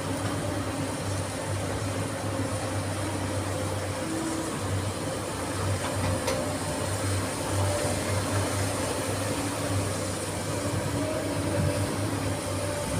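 SANY SY215C hydraulic excavator's diesel engine running with a steady low drone that briefly dips about four and a half seconds in.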